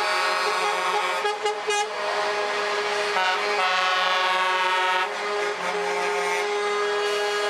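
Several truck air horns sounding together as overlapping steady tones, with a few short blasts about a second and a half in and a change in the mix of pitches around five seconds in.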